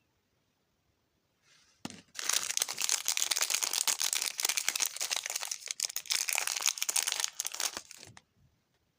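Toy packaging being crinkled and torn open by hand: a dense run of fine crackling that starts with a knock about two seconds in and stops about a second before the end.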